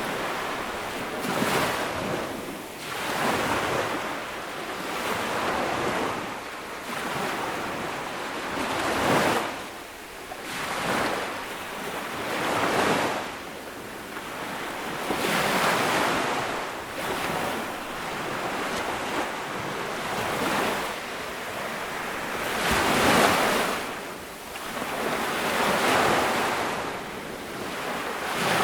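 Ocean waves breaking and washing up a beach, one swell after another every few seconds, with wind on the microphone.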